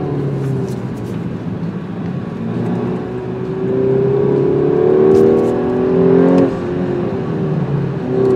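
Audi A5 Sportback's turbocharged four-cylinder engine heard from inside the cabin, pulling hard. Its pitch and loudness climb for a few seconds, drop sharply about six and a half seconds in, then climb again.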